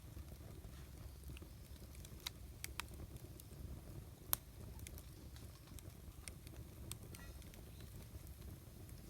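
Wood campfire crackling, with scattered sharp pops over a low steady rumble; the loudest pop comes a little past four seconds in.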